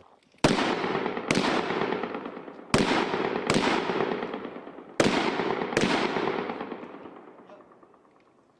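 Six gunshots fired in three pairs, each pair about a second apart, every shot trailing off in a long echo.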